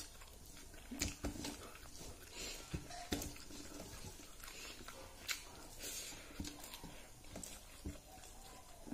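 Someone eating rice and curry by hand: scattered wet chewing and lip smacks, with soft clicks as fingers mix rice on a steel plate.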